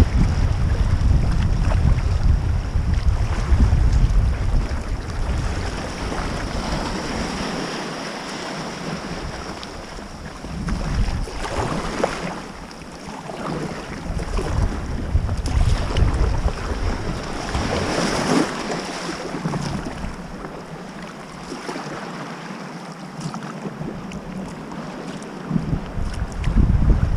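Wind buffeting the microphone over sea water lapping and splashing around a sea kayak. The wind rumble is strongest for the first several seconds and again near the end, with a few brief splashes in between.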